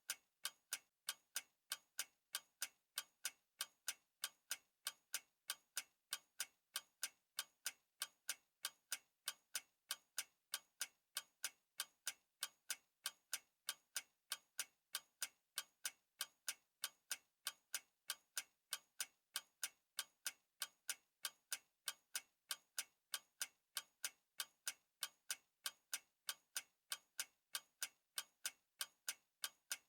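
A clock ticking steadily, with sharp, evenly spaced ticks, a few a second, and nothing else behind them.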